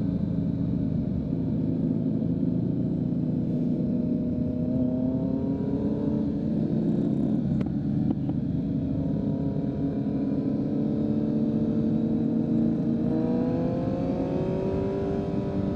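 2023 Kawasaki Z900's inline-four running through a full Leo Vince exhaust while riding. The engine note holds steady, then climbs gently as the throttle opens, once about a third of the way in and again near the end.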